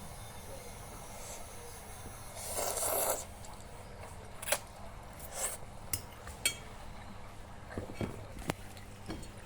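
Eating instant carbonara noodles: a short noisy slurp about two and a half seconds in, then a string of light clicks and scrapes of cutlery against the bowl.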